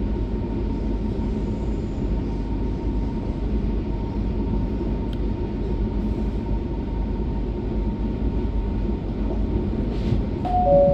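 Steady rumble of a train running, heard from inside the carriage. Near the end comes a two-note chime, higher note then lower.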